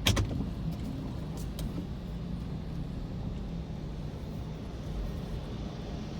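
A car's engine running at low speed, heard from inside the car as a steady low rumble, with one sharp click right at the start.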